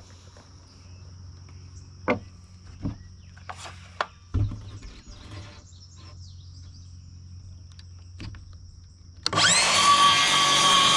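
Sharp wooden knocks and taps of lumber being handled, over a steady high insect trill. Near the end a power tool starts up and runs loudly, its pitch rising as it spins up.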